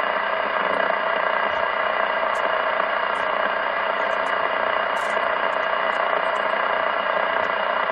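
Steady static-like rushing noise with a faint buzz coming over a CB radio speaker, a carrier keyed up on the channel with no voice on it.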